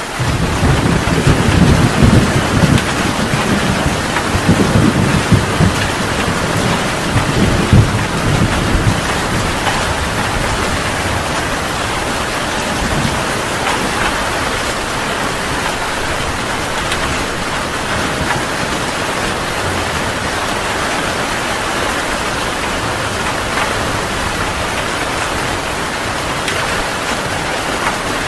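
Heavy rain falling steadily, with a long roll of thunder rumbling over the first nine seconds or so before it fades into the rain.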